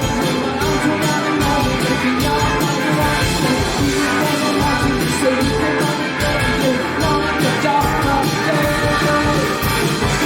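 Indie rock band playing live: electric guitars, bass and drums in a loud, steady passage of a song with a regular beat.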